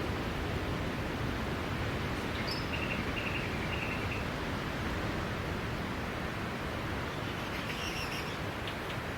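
Ocean surf washing steadily on the shore as an even rushing noise. A bird chirps a few short notes about two and a half seconds in and again near the end.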